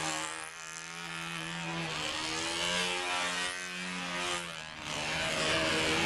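Small control line model airplane engine buzzing at high revs while the plane hovers. Its pitch and loudness dip and swell twice.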